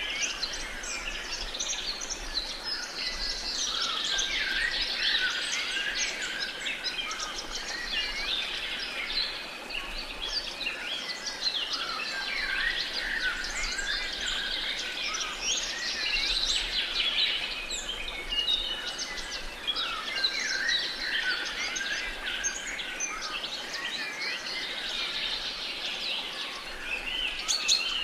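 A chorus of many songbirds chirping and singing at once, a dense overlapping mix of short calls and trills.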